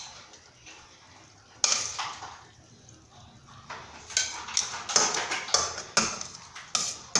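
Serving spoon clinking and scraping against the skillet and plate as food is dished out: one sharp clink about a second and a half in, then a quick run of clinks over the last three seconds.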